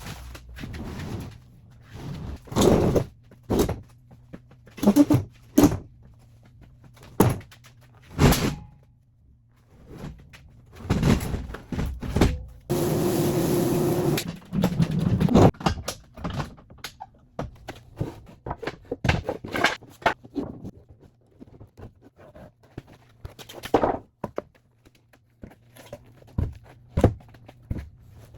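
Wooden knocks and thuds, one after another, as boards and parts are handled and set in place on a workbench. About halfway through there is one steady whirring sound lasting about a second and a half.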